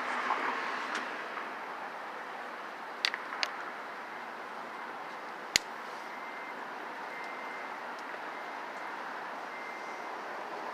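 Steady outdoor rushing background noise, typical of a city waterfront, with three sharp clicks in the middle and a few faint short high beeps after them.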